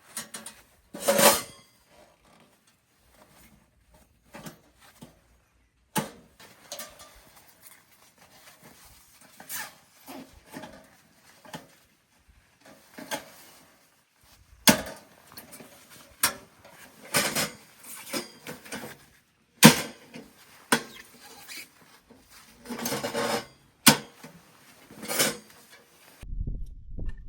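Camping gear being handled: irregular clinks, knocks and rustling, with a few sharp single knocks. A steady low rumble begins near the end.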